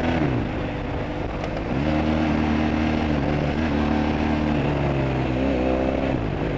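Car engine running, its pitch falling early on, climbing about two seconds in and holding, then dropping and climbing again near the end, as the revs change while driving.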